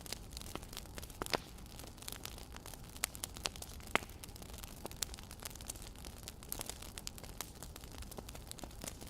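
Wood fire crackling: a steady low hiss with irregular sharp pops and snaps, two louder pops about a second and four seconds in.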